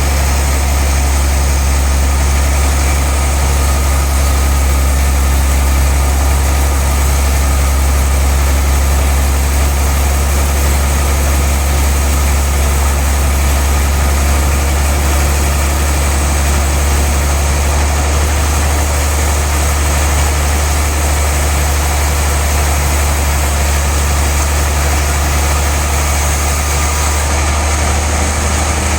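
Large log sawmill machine running, a steady deep hum with no change in pitch or level.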